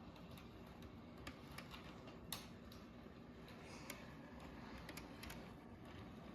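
HO scale model locomotive running slowly in reverse on its track: a faint steady hum with a few light, irregular clicks, the loudest about two seconds in.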